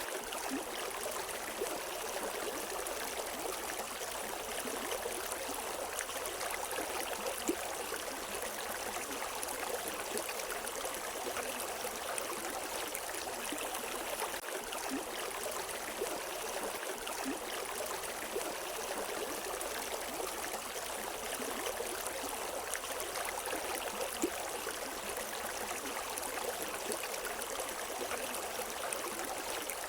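River water flowing steadily over rocks, a constant rushing with small splashes and gurgles.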